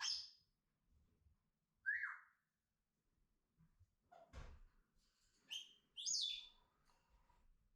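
Pet parrots giving several short, separate whistled calls, some gliding down in pitch, with a faint knock near the middle.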